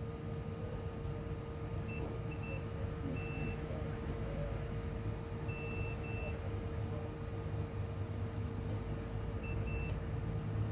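Short, high electronic beeps from bench test equipment, sounding in irregular clusters of one to three, some brief and some held for about half a second, over a steady hum and low background rumble.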